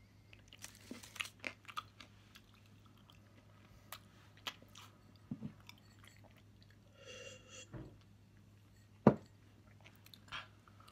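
A person chewing a mouthful of caramel-filled milk chocolate: soft, wet mouth clicks and smacks, most frequent in the first two seconds, over a low steady hum. A single sharp click about nine seconds in is the loudest sound.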